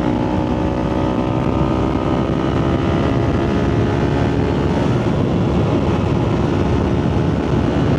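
Motorcycle engine running at a steady highway cruise, its note held level under wind rush on the helmet microphone.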